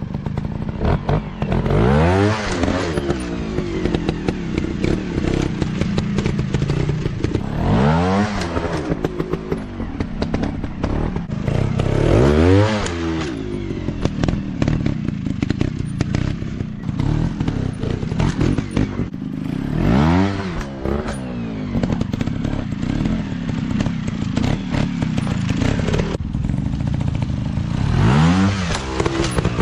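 Small 150 cc dirt bike engines running, with about five loud surges that rise and then fall in pitch, over a continuous engine drone and some clatter.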